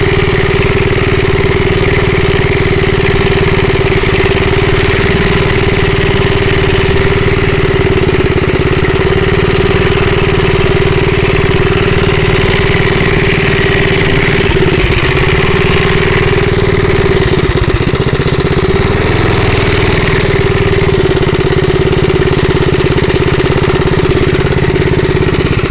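Bonanza minibike's small gas engine running at a steady, unchanging pitch.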